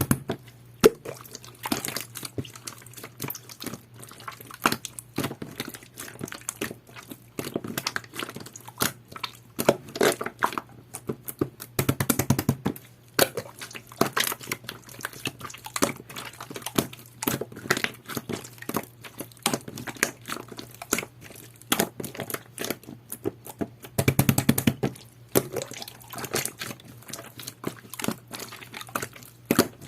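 Jelly-textured pearl slime being squished and pressed by hand, making irregular wet clicks and pops, with bursts of quick popping about twelve seconds in and again near the end.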